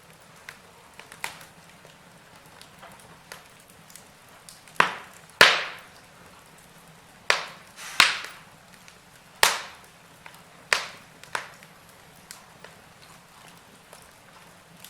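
Wood fire burning in a fireplace, crackling with irregular sharp pops. Several louder snaps come in the middle, over a faint steady background.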